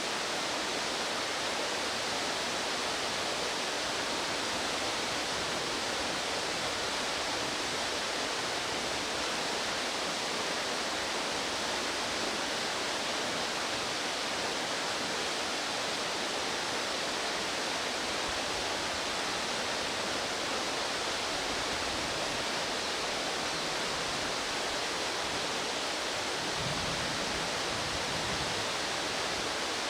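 Steady rush of fast-flowing mountain stream water, an even hiss without let-up.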